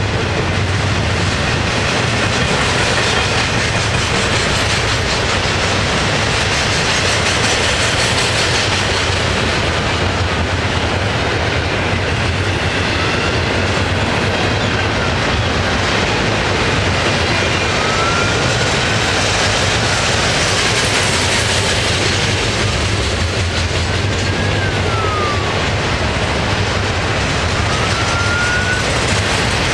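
Double-stack container cars of a Florida East Coast Railway freight train rolling past: a steady rumble and clatter of wheels on the rails. From about halfway through come a few faint short squeals that rise or fall in pitch.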